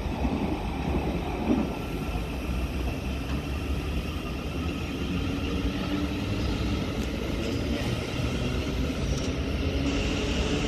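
Steady rumble of a train running on the line, with a faint higher whine building near the end.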